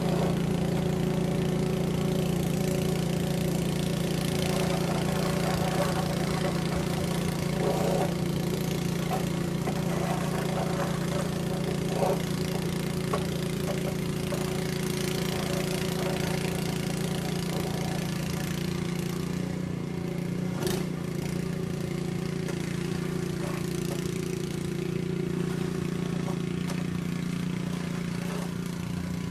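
An engine running steadily at an even speed, with a faint click or two.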